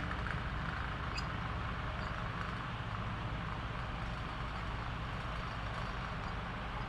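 Steady mechanical hum with a hiss over it, a machine running evenly without change.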